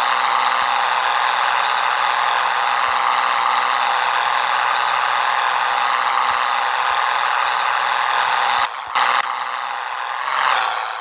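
Scania 113 truck under way: a steady, loud engine drone and road noise with cab rattling. Near the end the sound briefly cuts out twice, and the engine note falls.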